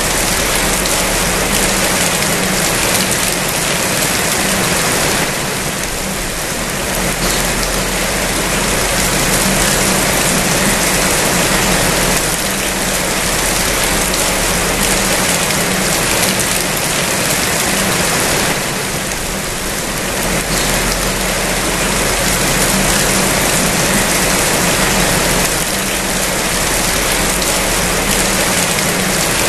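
Rain falling steadily: a dense, even hiss of drops with no pauses.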